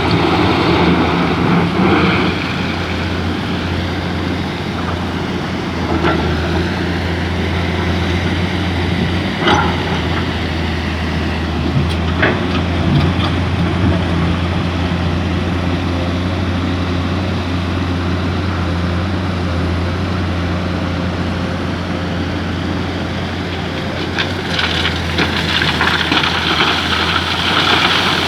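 Excavator diesel engine running steadily with a low hum, with a few short knocks; it grows louder near the end.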